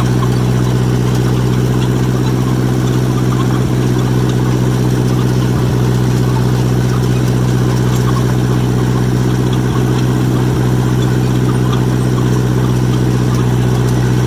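John Deere 1010 crawler's four-cylinder engine running at a steady, unchanging speed while the machine is driven along.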